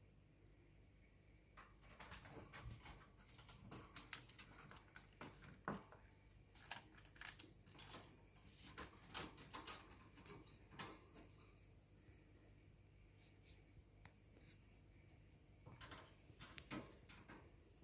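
Cockatiels moving about their cages: faint scattered clicks and scratches, with no whistling or song. The clicks come in clusters through the first two-thirds and again near the end.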